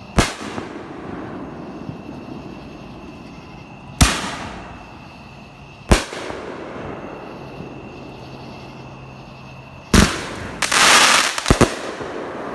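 Fireworks going off: single sharp bangs with echoing tails, four over about ten seconds. Near the end comes a loud, dense crackling burst, followed by a few quick pops.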